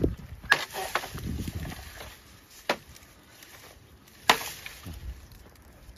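Chopping: several sharp blows of a blade at irregular spacing, cutting down a bird-catching net, with the loudest strikes about half a second and about four seconds in.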